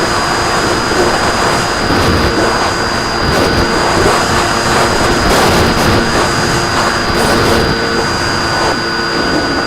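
RC plane's motor and propeller running steadily, heard from on board over loud wind rush, with a thin high whine held throughout.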